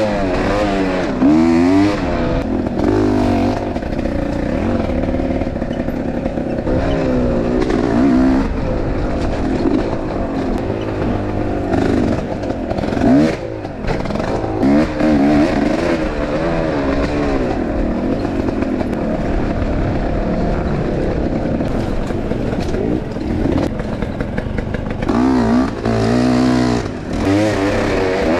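Enduro motorcycle engine being ridden hard, revving up and down again and again as the throttle is worked, its pitch rising and falling every second or two.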